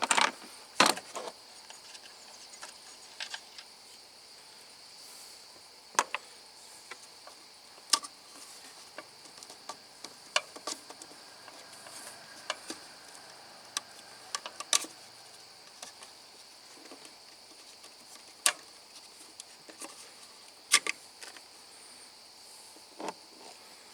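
Steady high-pitched chirring of crickets, with scattered sharp clicks and knocks every few seconds; the loudest come near the start and about two-thirds of the way through.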